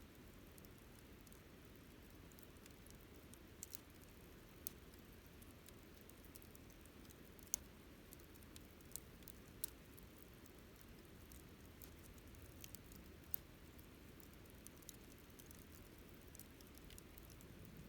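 Wood campfire burning quietly: sparse, irregular sharp crackles and pops from the burning wood over a faint steady low rush.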